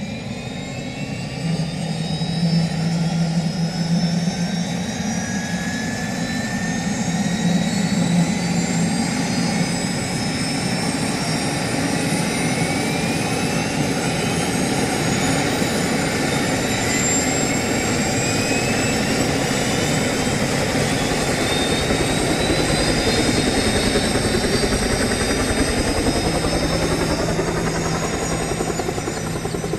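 Turbine helicopter engine running, its whine climbing slowly and steadily in pitch over a constant low hum, as when the turbine spools up.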